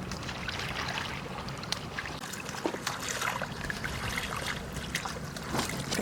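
Water trickling and sloshing, with a few small splashes.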